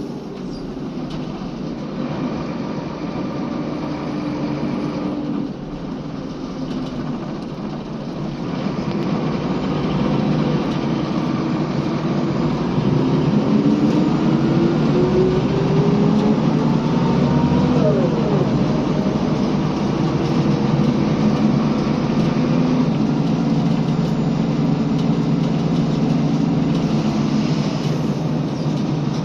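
Scania L94UB bus's diesel engine running, then pulling harder: it grows louder and its note rises about ten seconds in, with a brief drop in pitch partway through.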